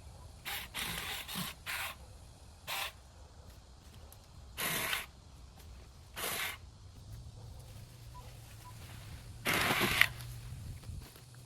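Irregular short rustling crunches of dry, overgrown vegetation being pushed through or handled, about nine of them, the loudest near the end. A faint low hum comes in about two-thirds of the way through.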